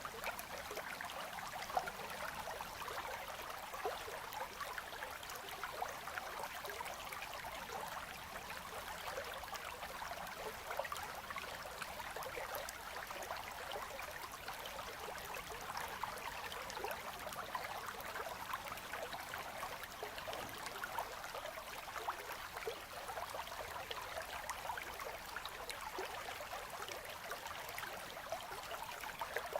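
A winter river's quiet current flowing steadily among ice, a gentle even rush of water with fine trickling detail.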